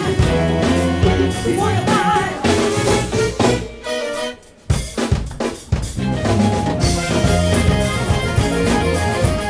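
Live soul band playing with drum kit and bass, with a sung line at the start. The music stops suddenly about four seconds in, then a few separate drum hits bring the full band back in.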